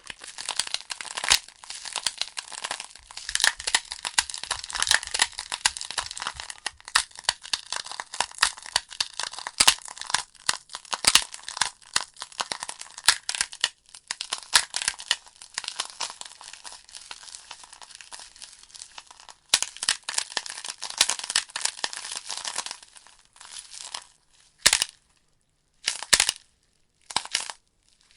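Logs burning in a fireplace, crackling with a dense run of sharp snaps and pops over a soft hiss. Near the end the crackle thins to a few separate pops with short quiet gaps.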